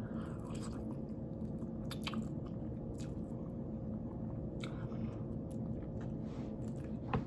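A person biting into and chewing barbecue rib tips close to the microphone: soft, wet mouth clicks and smacks scattered throughout, over a steady low background hum.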